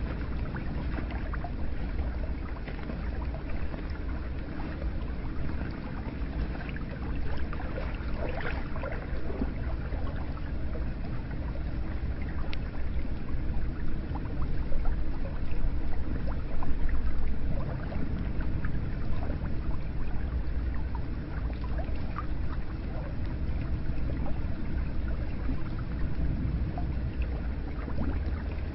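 Hot spring water running and splashing: a steady low rush of water with many small scattered splashes and trickles.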